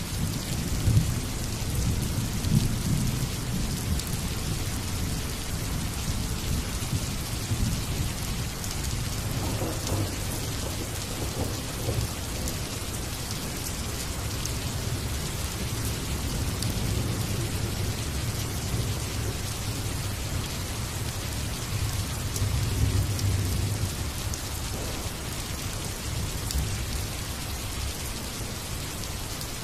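Steady rain falling with low rolls of thunder, the rumble swelling near the start and again in the latter half.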